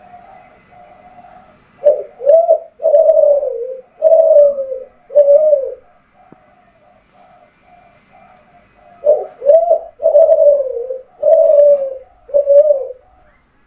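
Derkuku Kelantan, a spotted dove kept for song, cooing in two loud phrases of about five notes each: one a couple of seconds in and one about nine seconds in. Softer, evenly repeated cooing carries on between the phrases.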